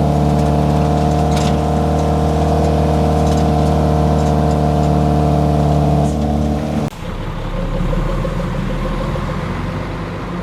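Safari truck's engine running hard at steady revs, then the sound breaks off abruptly about seven seconds in, giving way to a quieter, lower rumble.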